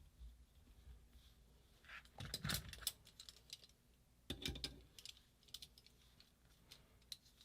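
Small metal tools being handled: light clicks and clinks, with two louder clattering bursts about two and four and a half seconds in.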